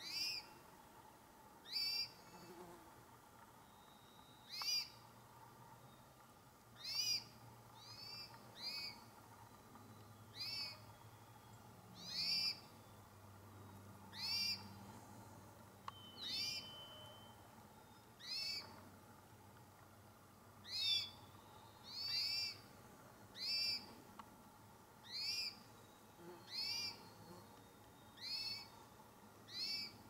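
A small songbird calling over and over, one short, sharp, high note about every second and a half, sometimes two in quick succession.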